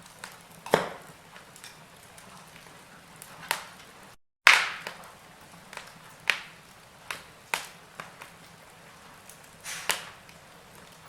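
Wood fire in a fireplace crackling, with sharp single pops every second or so over a low steady hiss. The sound cuts out for a moment about four seconds in, and the loudest pop follows right after.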